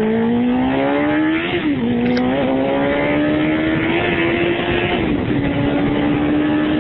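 Motorcycle engine pulling hard through the gears. Its note rises, falls sharply at a gear change about a second and a half in, then climbs again more gently and settles to a steady run for the last couple of seconds.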